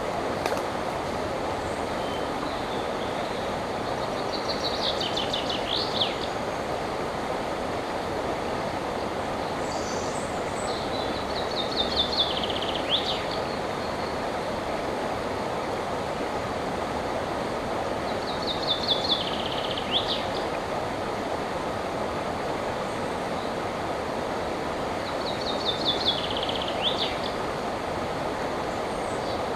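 River water flowing steadily, with a songbird singing four short phrases about every seven seconds. Each phrase is a quick run of notes falling in pitch and ending in a brief flourish.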